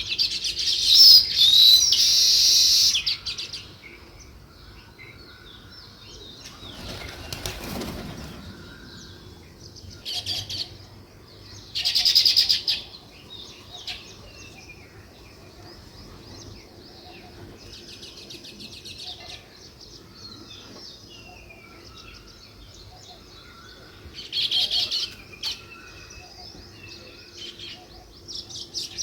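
House sparrows chirping in loud bursts of rapid high chirps, near the start, around ten to thirteen seconds in and again near the end, with softer scattered chirps between. A brief rushing noise about seven seconds in.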